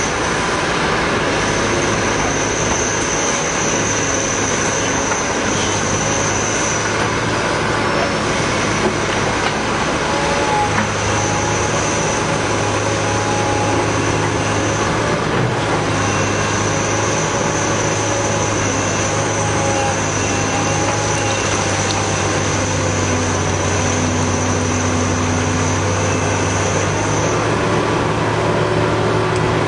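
Caterpillar 245B excavator's diesel engine running steadily under working load, with a thin high whine that comes and goes.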